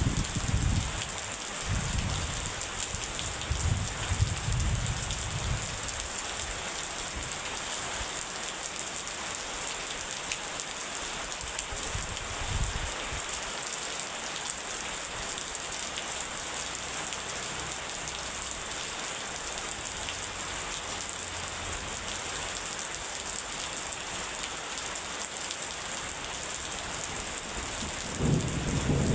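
Steady rain falling, with low thunder rumbles in the first few seconds and a louder rumble of thunder building near the end.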